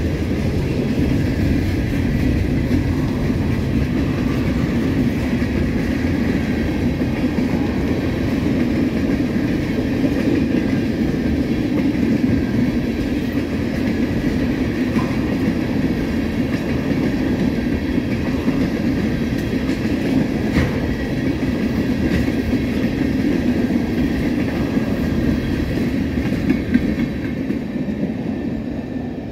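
Freight train of covered hopper cars rolling past at speed: a steady noise of steel wheels running on the rails that eases off near the end as the last cars go by.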